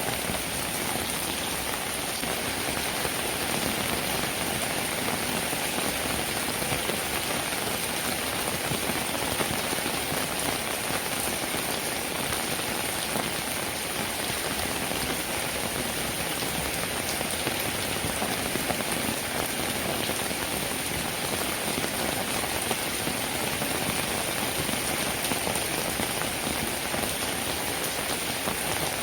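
Steady rainfall: a dense, even hiss of many drops that holds constant throughout.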